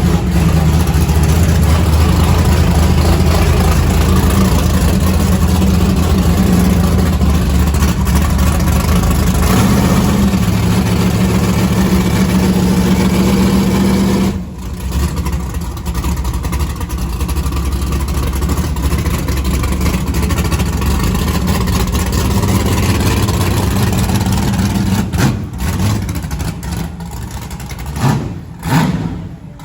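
Car engine running loud and steady for about fourteen seconds, then dropping off suddenly and carrying on at a lower level, with a few brief dips near the end.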